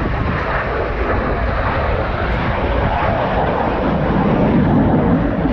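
Red Arrows BAE Hawk T1 jets flying overhead: a steady jet roar that grows a little louder about four seconds in.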